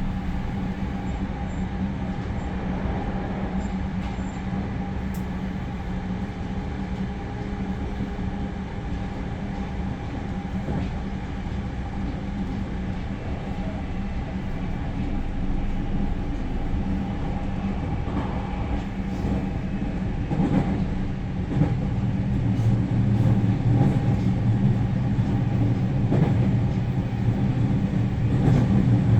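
Inside the passenger cabin of a JR Central 315 series electric train running at speed: a steady rolling rumble of wheels on rail with a low hum. It grows somewhat louder and deeper about three quarters of the way through, with a few faint knocks.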